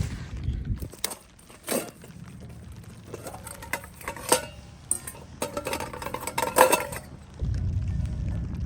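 Metal camp gear being handled: a run of light clinks and rattles over several seconds, then a steady low rumble sets in near the end.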